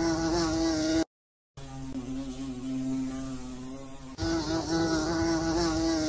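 Many honeybees buzzing at a hive entrance: a steady, slightly wavering hum, broken by a short gap of silence about a second in.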